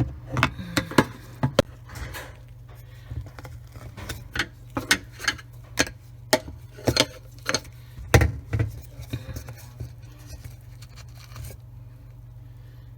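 Irregular sharp clicks and taps of hard plastic parts in a Bosch dishwasher's drain pump sump as debris is picked out around the impeller. The clicking stops about a second and a half before the end.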